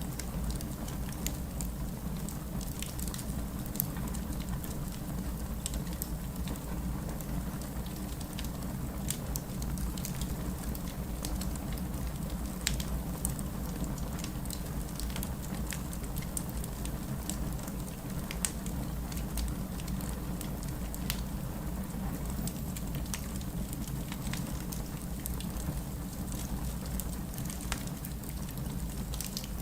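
Wood fire crackling with frequent sharp pops over a steady wash of rain and a low rumble.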